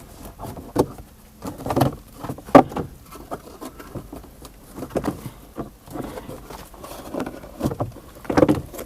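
Old plastic wheel-arch liner being worked and pulled free from a car's wheel well, where it is stuck on with dried mud: irregular rustling, scraping and knocks of flexing plastic.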